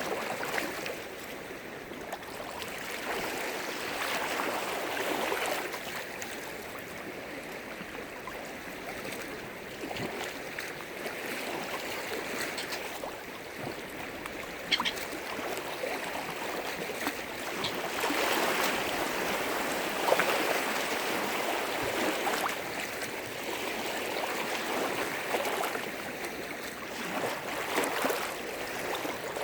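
Lake waves washing and splashing against the shore, the rush of water swelling and fading every several seconds, with a sharp slap about fifteen seconds in and another about twenty seconds in.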